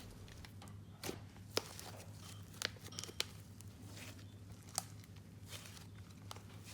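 Icing slime being handled, giving faint, scattered crackles and small pops about once a second.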